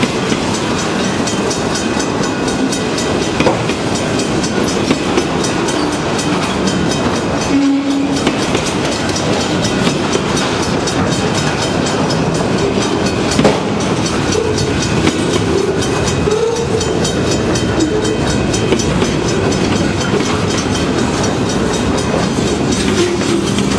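Freight train cars rolling along the track, a steady rumble with wheels clattering over the rails.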